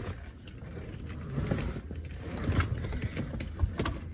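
Small scattered clicks and rustles of fast food and its packaging being handled and eaten, over a steady low hum.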